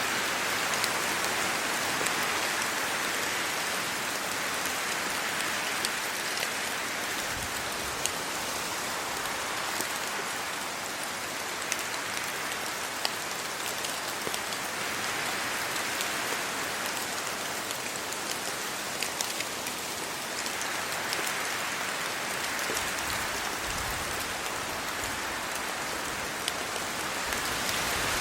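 Steady rain falling on trees and leaves, with scattered individual drops ticking sharply against the hiss. The sound swells and eases slowly, as wind gusts move through the wet foliage.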